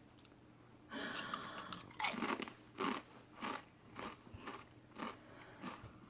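A person biting into a habanero Death Rain potato chip and chewing it: a sharp crunch about two seconds in, then even crunching chews about twice a second.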